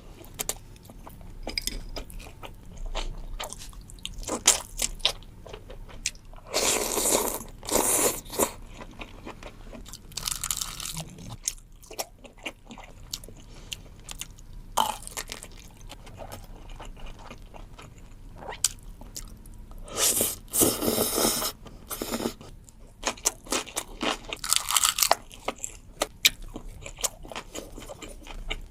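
Close-miked eating sounds: crisp food being bitten and chewed, with many small crackles and several louder crunching bites spread through.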